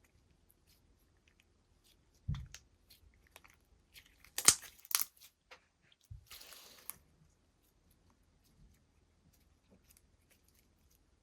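Hands playing with slime, making small sticky clicks and pops. A cluster of loud sharp crackles comes about four and a half seconds in, and a longer crackling noise follows about six seconds in.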